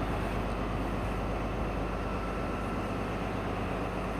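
Diesel multiple unit engines running at a station, a steady low drone with an even hum.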